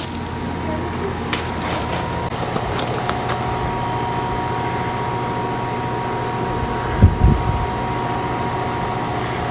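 A steady mechanical whir like a fan or blower, with a low hum and a faint steady whine. A couple of low thumps come about seven seconds in.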